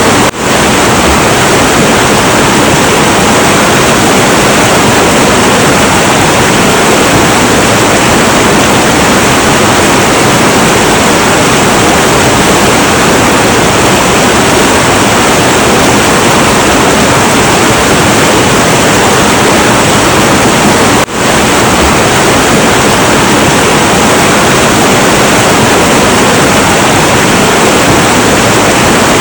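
Heavy, turbulent river water rushing in a steady, dense roar. The sound drops out briefly twice, just after the start and about two-thirds of the way through.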